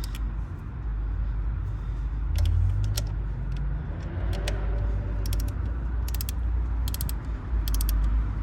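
Ratchet wrench clicking in short bursts of quick clicks, about one burst a second in the second half, over a steady low rumble.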